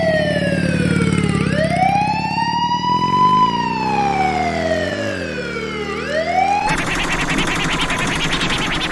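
A wailing siren rising and falling slowly, over a low steady hum. About two-thirds of the way in it cuts off abruptly into a dense, fast scratchy rattle.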